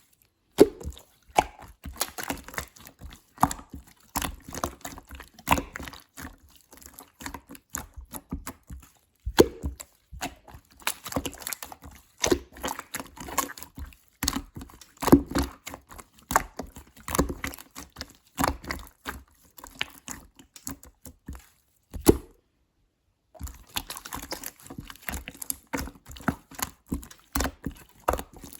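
Clear slime being squished and played with by hand, making a dense, irregular run of sticky clicks and pops. The sound stops for about a second roughly three-quarters of the way through, then picks up again.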